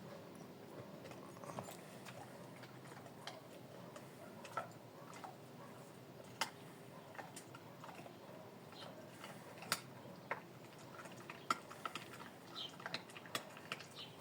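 Faint, irregular clicks and crunches of a dog eating, a few sharp ticks a second apart at uneven spacing.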